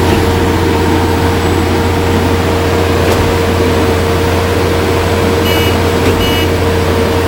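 Heavy diesel engines of a concrete mixer truck and concrete pump running at a steady speed, a loud even drone with a constant hum. Two short high beeps about a second apart near the end.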